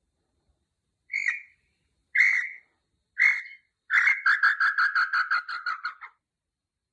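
Tataupa tinamou (nambu pé-roxo) singing: three separate calls about a second apart, then a quick run of about ten notes that drops slightly in pitch. The bird is in full, eager song.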